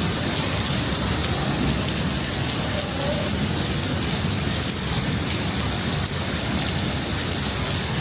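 Heavy rain falling steadily: a constant hiss with the patter of many drops.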